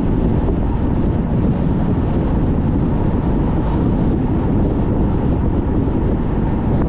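Strong wind buffeting a moving car, a loud, steady low rumble mixed with road noise.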